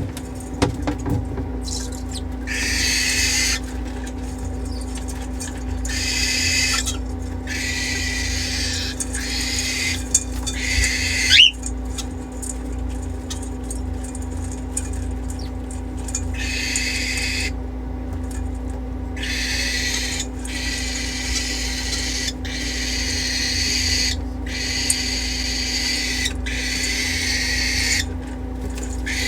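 Parrots in an aviary giving repeated harsh, hissing screeches, each a second or two long with short breaks, and one short rising whistle partway through. A steady low hum runs underneath.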